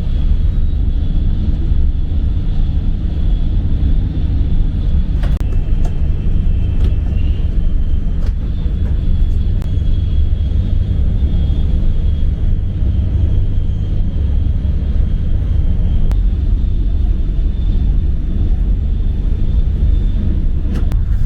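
Cabin noise inside the Al Boraq high-speed train running at full speed: a steady, loud low rumble with a faint high whine over it and a few light clicks.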